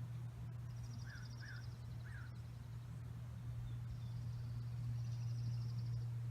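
Small birds chirping outdoors: two high, rapid trills and three short lower notes, over a steady low hum.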